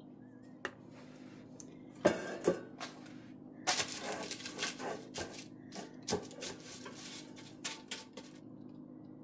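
Kitchen clatter of dishes and utensils being handled: a few separate knocks, then a quick run of clicks and clinks for a few seconds, with a couple more near the end. A steady low hum runs underneath.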